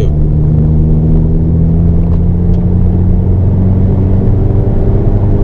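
Hyundai Avante N's turbocharged four-cylinder engine pulling under load at fairly steady revs, heard from inside the cabin during a lap of a race circuit.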